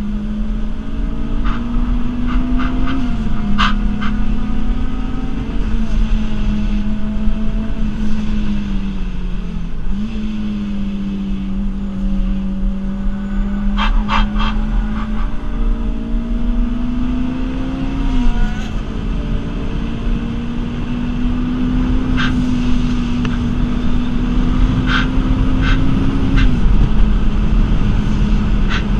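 Rotrex-supercharged Toyota Celica 2ZZ four-cylinder engine heard from inside the cabin on track, its note climbing slowly through each gear and dropping sharply at the shifts, about five times. A low road and tyre rumble runs underneath, with a few bunches of sharp clicks.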